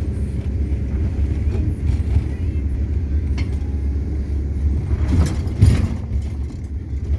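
Car engine idling, a steady low rumble heard from inside the cabin, with a brief rustle about five seconds in.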